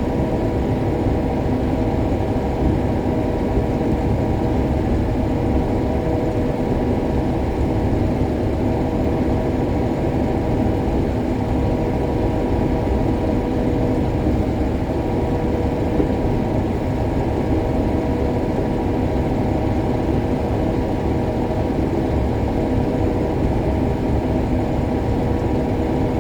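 Combine harvesting soybeans, its engine and threshing machinery running with a steady drone and a constant whine of several held tones.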